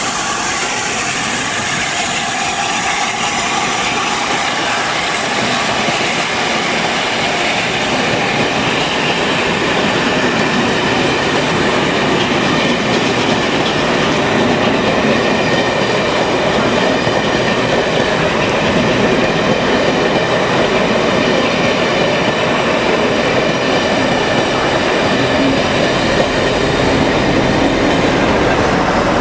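A train running by on the track, its wheels clattering steadily over the rails with a faint squeal, growing a little louder toward the end.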